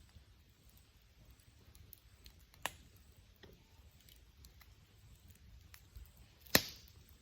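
Wood fire crackling: faint scattered ticks, with two sharp pops of burning wood, the second one, near the end, the louder.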